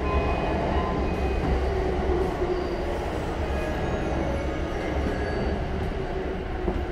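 JR East E235-series commuter car standing at a station platform: its passenger doors slide open at the start, then a steady hum from the car's onboard equipment continues, with platform noise coming in through the open doorway.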